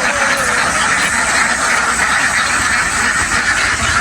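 A very large flock of domestic ducks quacking all at once, making a dense, unbroken din at a steady level.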